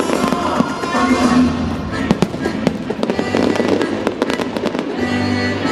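Aerial fireworks bursting and crackling in quick succession, densest from about two seconds in to four and a half, over music playing throughout.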